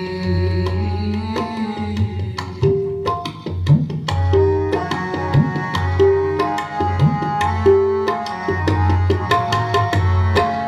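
Tabla playing a rhythmic pattern in an instrumental interlude between sung lines of Sikh kirtan, with low bass-drum strokes that slide up in pitch. Sustained melody notes are held over the drumming.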